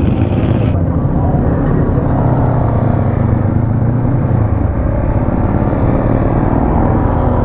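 Motorcycle engine running steadily while under way, with a steady rushing noise over it.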